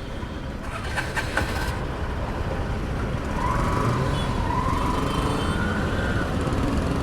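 Road and wind noise from a motorcycle riding in city traffic. A faint wavering tone from another vehicle rises slowly from about three seconds in.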